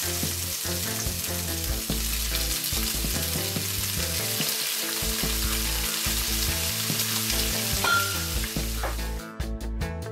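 Raw shrimp sizzling steadily as they are added to hot oil and garlic in a frying pan. Near the end the sizzle fades and music with a beat comes in.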